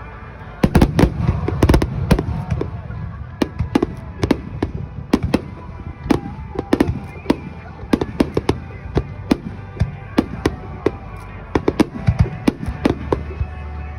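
Aerial fireworks shells bursting in rapid, irregular succession: many sharp bangs with echoing tails. The heaviest flurry, over a low rumble, comes from about half a second to two seconds in.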